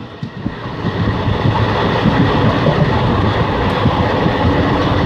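Running noise of a passenger train heard from on board: a steady rumble of the wheels on the rails. It builds up over the first second, then holds steady.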